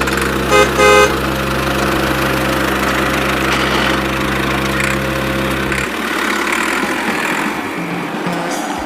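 A vehicle engine idling with a steady low hum, with two short horn honks about half a second and a second in. The hum cuts off suddenly about six seconds in, leaving a noisy rumble.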